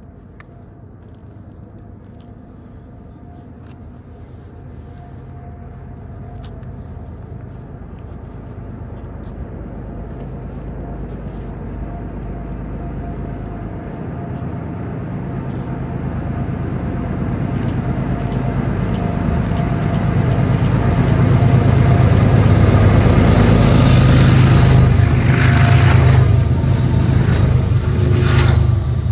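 BNSF freight train's diesel locomotives approaching, their low engine drone growing steadily louder for over twenty seconds. It is loudest as they pass near the end, with rail clicks and wheel noise, then falls off sharply.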